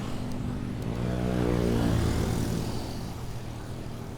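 A motor vehicle passing close by in city traffic, its engine note swelling to a peak about two seconds in and then fading, over steady traffic rumble.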